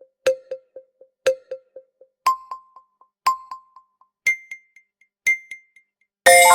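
Quiz countdown timer: electronic pings once a second, each trailed by quickly fading echoes, stepping up in pitch every two pings. It ends about six seconds in with a loud, ringing chime that signals time is up.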